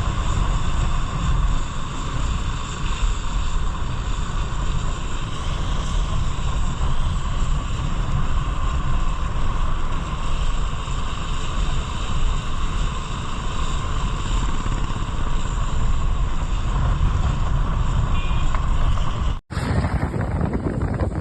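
Motorcycle engine running while riding, with wind rushing over the microphone. The sound breaks off briefly near the end and comes back with less engine and more wind.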